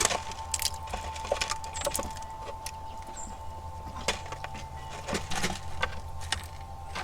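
Squirrels feeding at a platform feeder: irregular clicks and small cracks from nuts being gnawed and cracked and claws scrabbling on the platform, over a steady tone.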